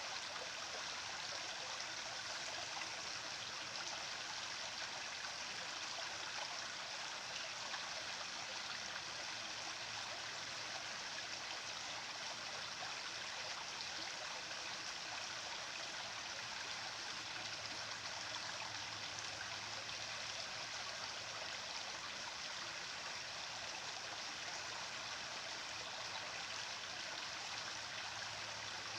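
Running water: a steady, even rush like a flowing stream, unchanging throughout.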